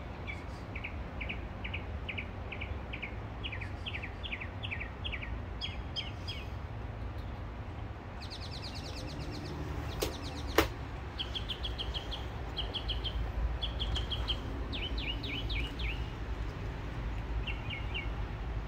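Birds chirping in runs of short high notes, about three a second in places, over a low steady rumble. Two sharp clicks come about ten seconds in, the second louder.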